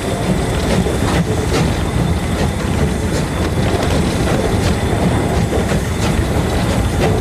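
Steam-hauled train running: a steady rumble with occasional clicks of the wheels over rail joints.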